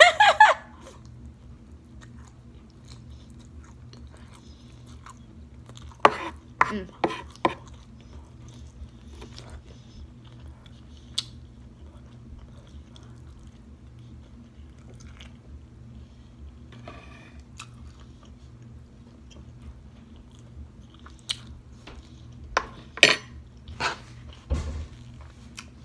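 A person chewing and smacking on a mouthful of sauced orange shrimp and lo mein noodles at close range. There is a cluster of short chewing noises about six seconds in, a few isolated clicks, and another cluster near the end, over a faint steady low hum.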